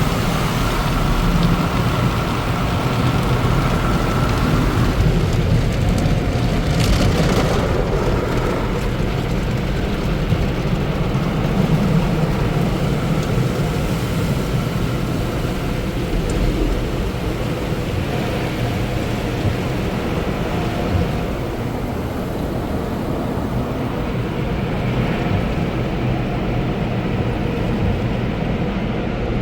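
Express tunnel car wash equipment heard from inside the car: water spray drumming on the car body over a steady low rumble of the tunnel machinery.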